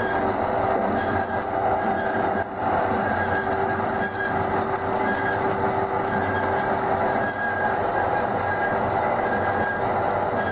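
DoALL C916SA automatic hydraulic horizontal band saw running, a steady mechanical noise with a few constant tones through it and a brief dip about two and a half seconds in.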